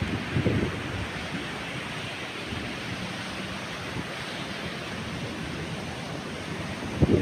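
Steady hiss of wind-driven rain in a storm, with wind gusts buffeting the microphone briefly about half a second in and again near the end.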